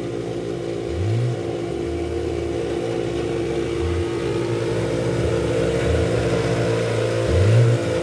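Dirt bike engine running and revving, with short rising revs about a second in and again near the end. It grows slowly louder.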